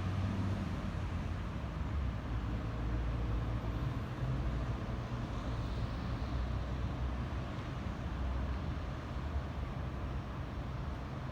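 Steady low rumble of vehicle engines with road traffic noise.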